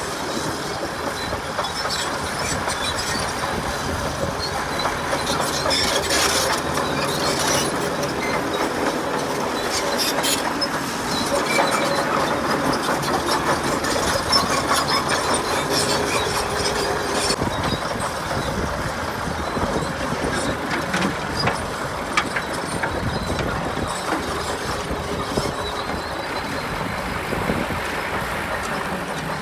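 Komatsu D61PX bulldozer working: diesel engine running under load with steady clattering and squealing from its steel crawler tracks.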